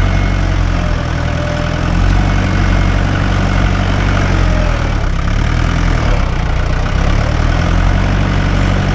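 Mahindra 575 DI tractor's four-cylinder diesel engine running steadily, its note dipping briefly about halfway through.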